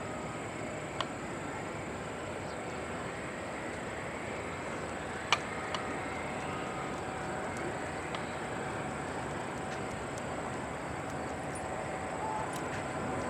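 Distant jet aircraft noise: a faint, steady rumble with a thin whine, with one sharp click about five seconds in.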